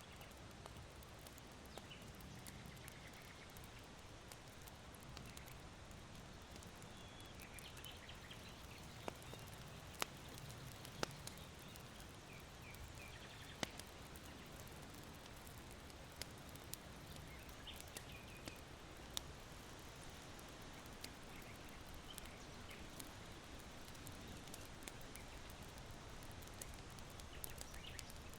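Charcoal embers in an irori hearth crackling, with scattered sharp pops, over a steady low rustle of wind in bamboo, and small birds chirping faintly now and then.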